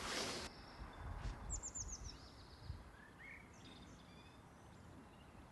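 Outdoor ambience with a songbird: a quick run of about five high chirps, each falling in pitch, about a second and a half in, then a few softer calls. It opens with a brief hiss of noise that cuts off abruptly about half a second in.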